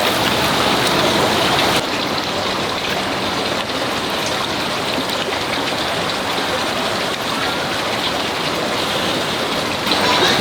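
Steady hiss of water, like rain or a running stream. It drops slightly in level about two seconds in.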